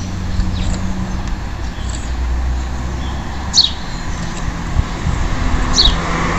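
Belgian canary giving two short, sharp falling call notes, about three and a half seconds in and again near the end, over a steady low background rumble.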